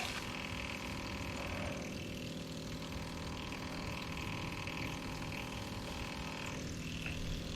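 Old pump running steadily with an even motor hum, pumping gasoline out of a scooter's fuel tank.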